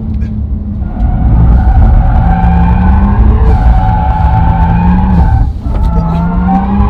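Brabus 820 Porsche 911 Turbo S's 3.8-litre twin-turbo flat-six pulling hard under acceleration. About five and a half seconds in there is a brief drop for an upshift, and then it pulls again.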